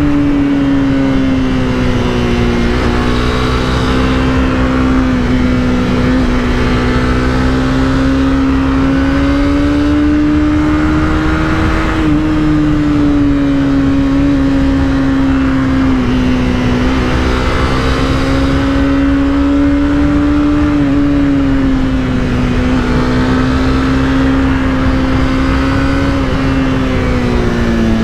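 Honda CBR300R's single-cylinder engine running while riding, its revs rising and falling gently and slowly, without hard revving.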